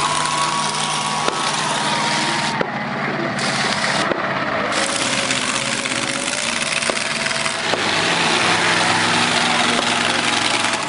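Monster truck engine running steadily, loud, with a dense noisy rush over it.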